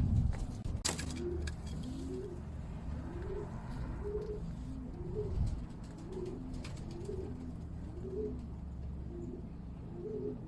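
Domestic pigeon cooing: a run of short, low, arching coo notes repeated about one and a half times a second over a low steady rumble, with a sharp click about a second in.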